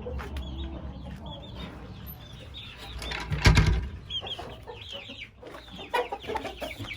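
Chickens clucking and calling in short repeated notes, more of them toward the end, with a loud bump about halfway through.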